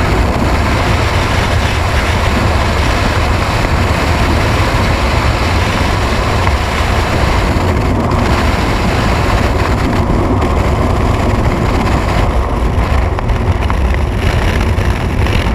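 Loud, steady rush of wind buffeting the microphone, as in skydiving freefall.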